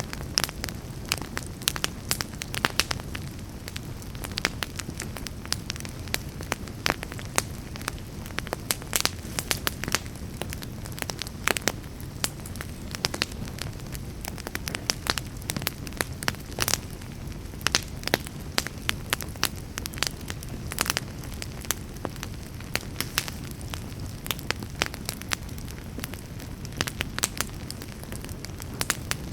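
Campfire burning steadily with a low rumble, and frequent sharp, irregular crackles and pops from the burning wood.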